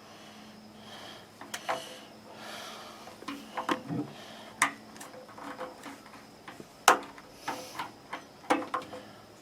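Irregular small clicks and knocks of hand tools and metal parts being handled while new thermostat and heating-element parts are fitted into an electric water heater, the sharpest knock about seven seconds in.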